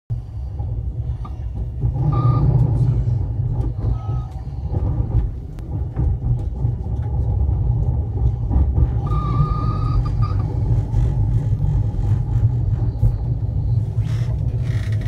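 Train running noise heard from inside the carriage as it rolls into the station: a steady low rumble with clicks of the wheels over rail joints and points. Short high squeals come about two and four seconds in, and a longer one about nine seconds in.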